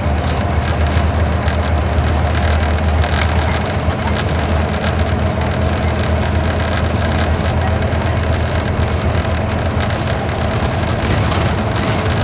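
Isuzu Gala coach's V-type diesel engine running, heard inside the bus as a steady low hum with tyre and road noise; the hum is strongest in the first few seconds and eases slightly after about four seconds.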